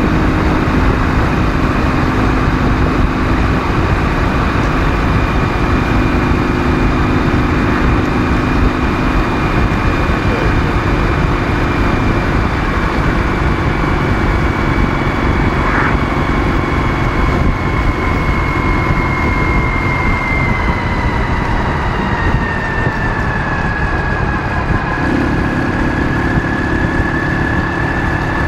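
Ural motorcycle's 650 cc flat-twin engine running while riding, mixed with steady wind and road noise. A high whine in the sound slowly drops in pitch over the second half.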